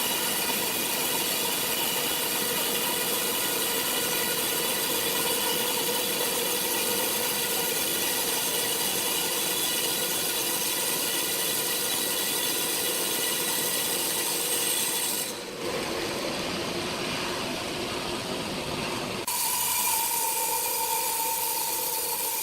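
Sawmill saw running through a log: a steady machine whine over a hiss. About fifteen seconds in, the sound changes abruptly to a duller, lower running noise for about four seconds, then the saw whine returns.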